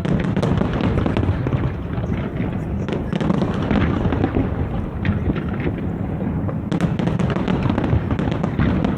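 Aerial fireworks display going off in a dense, continuous barrage of bangs and crackles, with thicker bursts of crackling about three and about seven seconds in.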